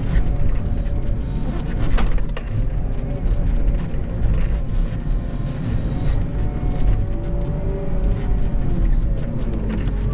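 Plow truck engine running steadily, with music playing over it.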